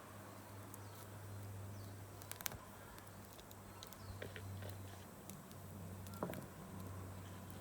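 Wood campfire crackling, with scattered sharp pops; the loudest come about two and a half seconds in and about six seconds in. A steady low hum runs underneath.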